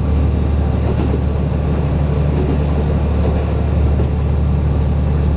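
Inside a KiHa 185 diesel railcar running at speed: a steady, loud low rumble of engine and wheels on the rails.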